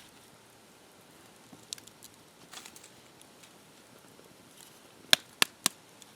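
A few faint taps, then three sharp knocks in quick succession about five seconds in.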